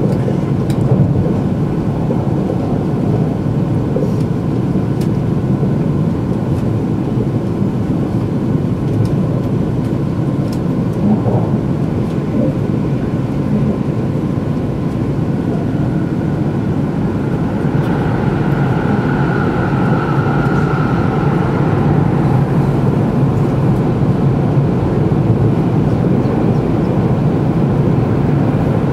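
Steady running noise of a Shinkansen train at speed, heard from inside the passenger cabin: a continuous low rumble and rush. A faint higher whine comes in about halfway through.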